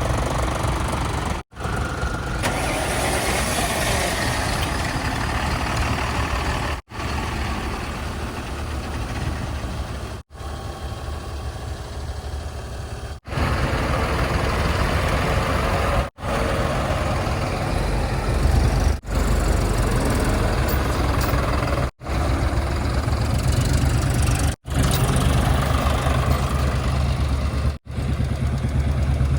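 Heavy diesel engines of earthmoving and farm vehicles running, heard in a string of short clips that break off abruptly every few seconds. The low engine rumble grows stronger about halfway through.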